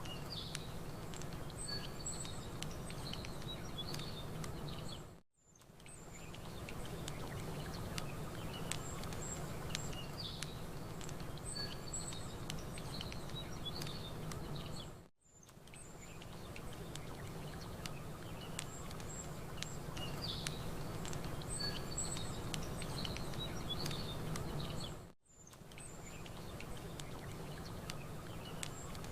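Campfire crackling with small birds chirping over a steady low wash of lake water. The sound dips to silence and fades back in three times, about every ten seconds, with the same chirps repeating after each dip: a short ambience loop.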